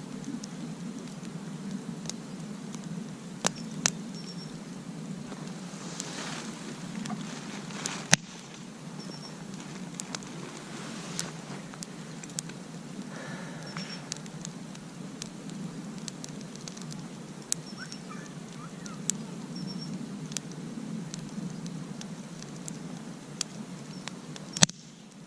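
Wood campfire crackling over a steady low rush, with irregular sharp pops throughout. A few pops are much louder: around three and a half seconds in, at about eight seconds, and just before the end.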